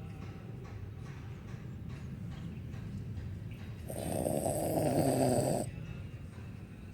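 A dog snoring in its sleep, with low rasping breaths throughout and one louder, drawn-out snore of under two seconds about four seconds in.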